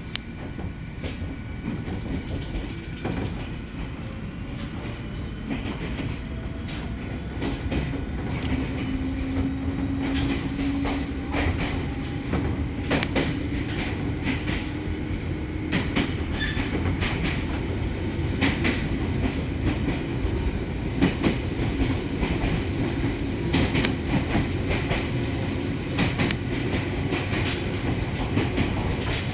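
Ohmi Railway electric train running on the line, heard from inside the car: steady low rumble of the wheels with frequent clicks over rail joints. A steady hum comes up about eight seconds in and is strongest for the next several seconds.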